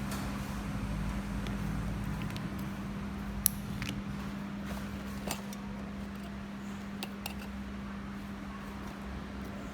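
Steady low background hum with a few sharp, light clicks scattered through it.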